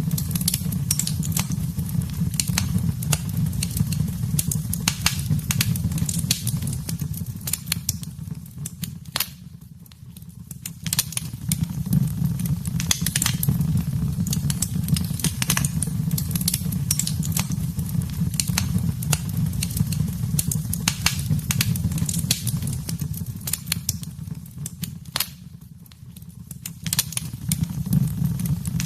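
Wood fire in a fireplace crackling: many sharp pops and snaps, irregular, over a steady low rumble. The rumble and snapping fade briefly twice, about a third of the way in and near the end.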